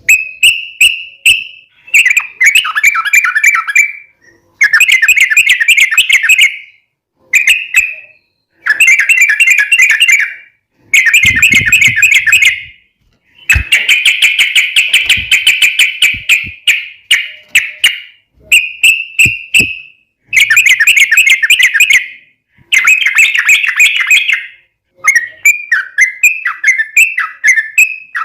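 Yellow-vented bulbul (trucuk) singing loudly in long, rapid chattering phrases of about one to three seconds each, separated by short pauses.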